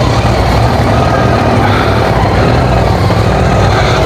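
A motor vehicle engine running steadily, with a constant low hum.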